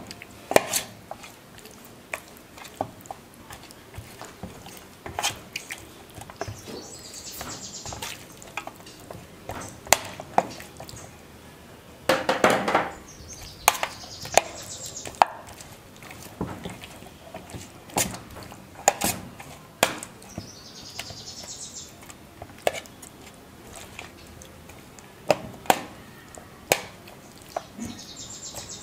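Chicken wings being mixed with oil and spices in a bowl: scattered, irregular knocks and clicks, with a louder stretch of mixing about halfway through.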